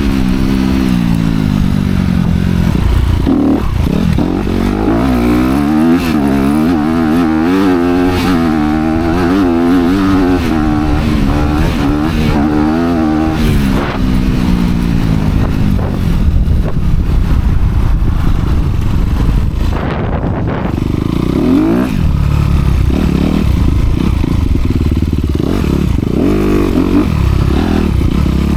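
Honda CRF250R dirt bike's single-cylinder four-stroke engine with dual exhaust, running hard while ridden. The revs rise and fall rapidly as the throttle is worked, then climb sharply again about three-quarters of the way through.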